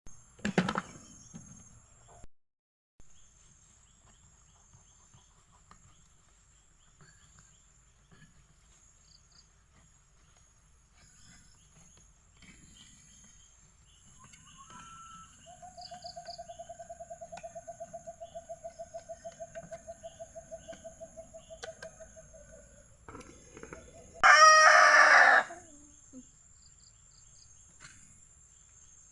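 A rooster crows once near the end, a loud call of about a second that is the loudest sound here. Before it comes a long even trill on one note lasting about seven seconds, over a steady high insect whine.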